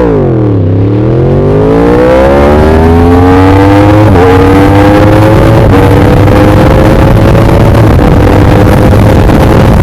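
Yamaha R1M's crossplane inline-four engine: the revs drop sharply in the first second, then the bike accelerates hard, pitch climbing steadily with quick upshifts about four and six seconds in.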